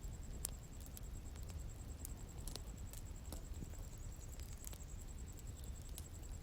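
Bonfire crackling: irregular sharp pops and snaps over a low steady rumble of the burning wood, the loudest pop about half a second in. A steady, high, pulsing insect trill runs underneath.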